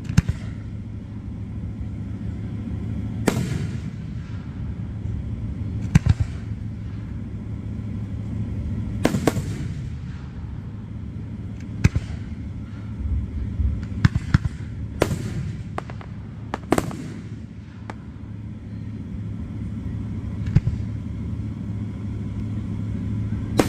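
Aerial fireworks going off: about a dozen sharp bangs at irregular intervals, some with an echoing tail, over a steady low rumble.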